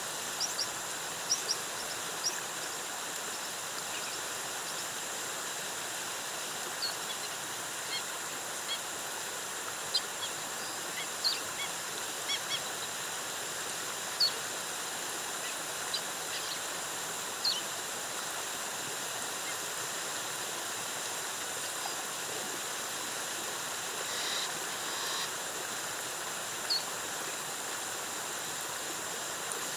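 Steady rush of a jungle waterfall, with short high bird chirps dotted through it and a slightly longer call near the end.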